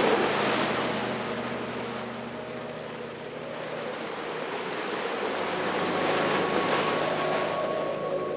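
Ocean waves washing onto the shore: one surge fading over the first few seconds, then another building and cresting around six to seven seconds in.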